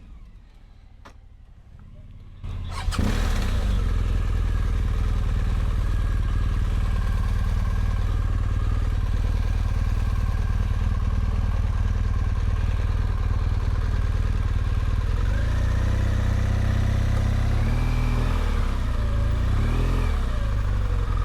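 Motorcycle engine starting about two and a half seconds in, then running steadily and loudly. Near the end its pitch rises and falls as it is revved and pulls away.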